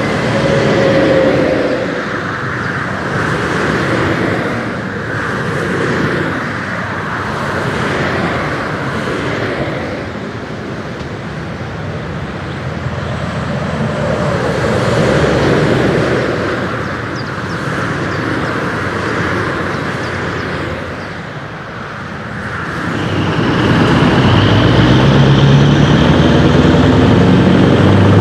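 Road traffic noise swelling and fading for most of the stretch, then, about 23 seconds in, a Scania R500 V8 truck with twin exhaust pipes comes up loud, its deep engine roar building and holding steady.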